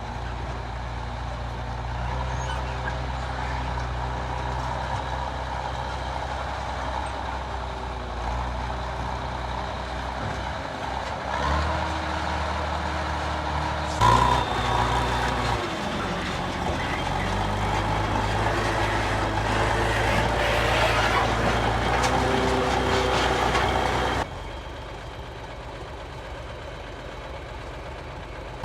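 Heavy diesel tractor engine running steadily while hauling a load over land. Its note changes abruptly about halfway through and again near the end.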